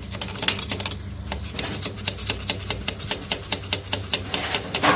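A rapid, slightly irregular run of sharp clicks or taps, several a second, over a steady low hum.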